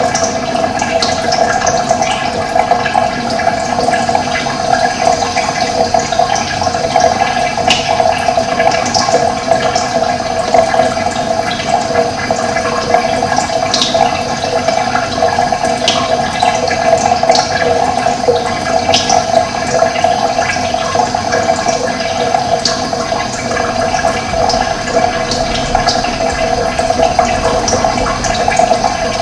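Running water with a steady rush, with short bird chirps scattered here and there over it.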